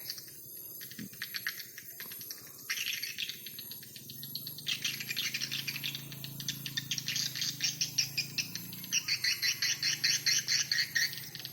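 Swiftlets twittering in fast, rapid trains of high chirps, coming in runs through most of the stretch, over a faint steady low hum.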